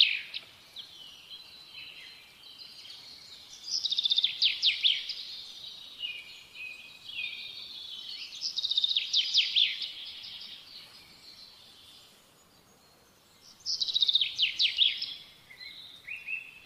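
A songbird singing: three phrases of rapid, quickly repeated high notes about five seconds apart, with softer chirps between them.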